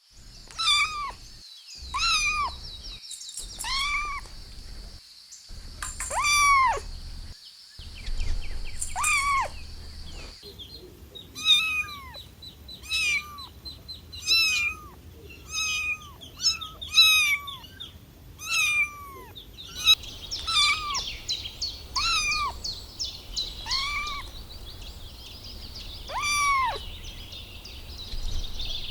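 Kittens meowing over and over, short high calls that rise and fall, about one every second or two, with a steady high-pitched buzz in the background for much of the time.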